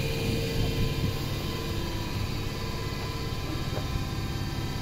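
ScotRail electric multiple-unit train at the platform, giving out a steady hum made of several fixed tones.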